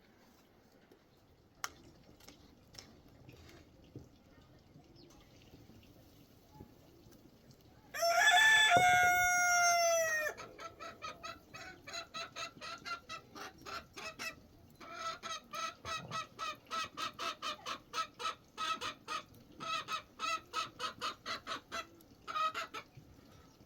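A rooster crows once, loud and about two seconds long, dropping in pitch at the end. It is followed by a long run of short, quick chicken clucks, about two to three a second with brief pauses.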